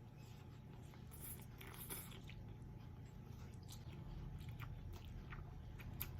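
A person biting and chewing food close to the microphone: a few soft crunches, then a run of small sharp clicky chewing sounds, one louder click near the end.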